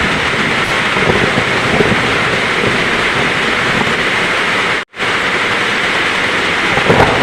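Heavy rain falling steadily. About five seconds in, the sound cuts out completely for an instant. A brief low thump of thunder comes near the end.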